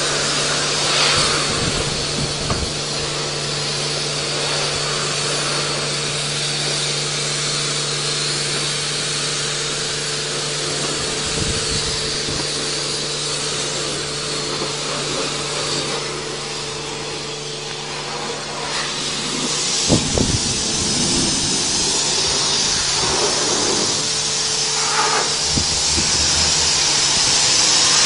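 Steady hiss of a high-pressure water spray over a constant motor hum, with a few brief changes in the spray about two-thirds of the way through.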